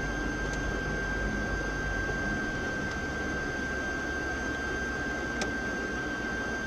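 Steady cabin noise of a car on the move, an even hiss and rumble with a constant high-pitched whine over it and one faint click about five seconds in.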